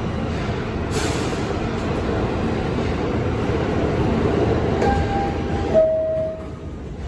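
R68 subway train running along the track with a steady rumble and a sharp click about a second in. Near the end come two short tones, a higher one then a slightly lower one, and the rumble drops off sharply.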